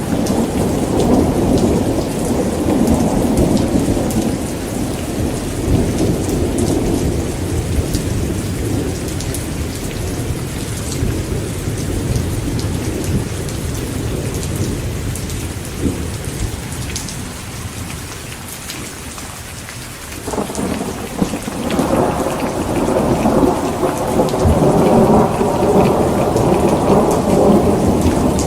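Heavy rain falling steadily with rolling thunder. A long rumble fades away over the first two-thirds, then a new peal breaks in suddenly about twenty seconds in and swells.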